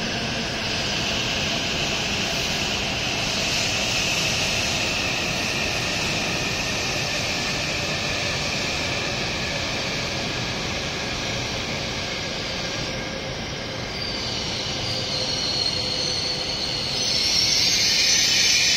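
W7 series Shinkansen train pulling in along the platform and slowing to a stop. Steady running noise carries a faint whine that slowly falls in pitch, and a loud hiss rises near the end.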